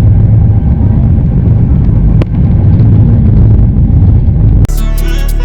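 A moving passenger train's running rumble, heard from aboard, a loud steady low drone with wind on the microphone. About four and a half seconds in it cuts off and electronic background music begins.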